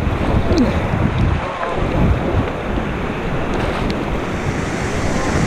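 River water rushing around a raft, with wind buffeting the microphone.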